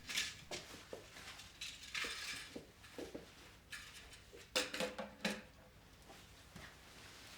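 Hard household objects being handled and set down: a run of light knocks and clinks, with a few ringing clinks, like crockery, about four and a half to five and a half seconds in.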